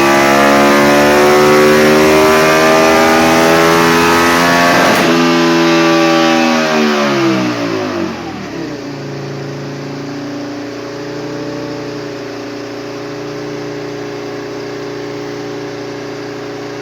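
Aprilia Tuono 1000 R's 60° V-twin with an aftermarket Leovince exhaust, running on a dyno. The engine pulls at high revs with the pitch slowly climbing, then the revs fall away over a few seconds as the pull ends. It settles to a steady, much quieter idle from about nine seconds in.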